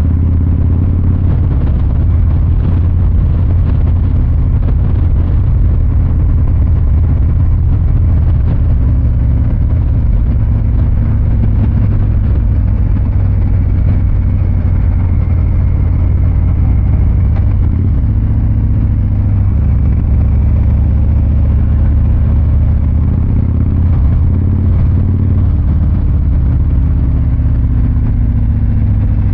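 Harley-Davidson Fat Boy 114's big V-twin running with a steady, even low rumble through its exhaust, with no hard revving.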